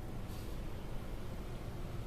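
LaserWash 4000 touchless car wash running on its spot-free rinse, heard from inside the car: a steady low rumble with an even hiss.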